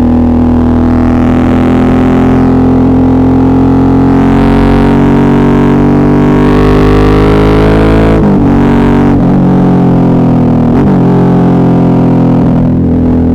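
Suzuki V-Strom 650's V-twin engine running under load, its pitch climbing gently for about eight seconds, then dipping briefly twice, once about eight seconds in and again near eleven seconds.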